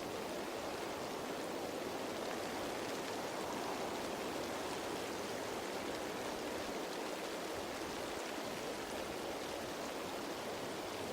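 Steady rain pattering on leaves, a continuous even hiss with faint scattered drop ticks.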